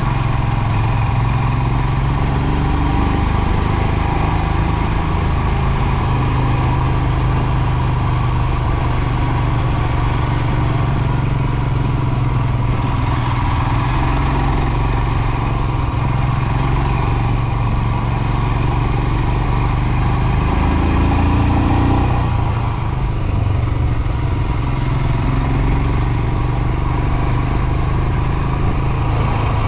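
Royal Enfield Himalayan's 411 cc single-cylinder engine running steadily while riding. About two-thirds of the way through, the engine pitch briefly rises and then drops back.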